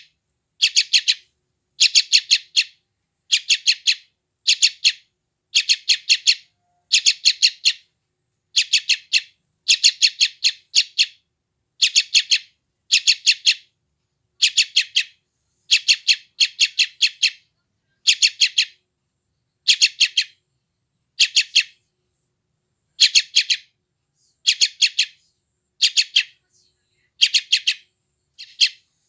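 Yellow-vented bulbul (trucukan) chick giving hungry begging calls: short bouts of rapid, high chirps repeated about once a second, with a couple of brief pauses near the end.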